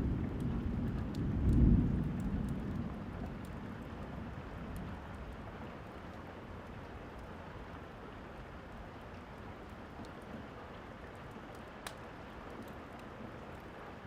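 Steady rain with a rumble of thunder that swells to a peak about two seconds in and dies away over the next few seconds. A few faint fireplace crackles click over the rain.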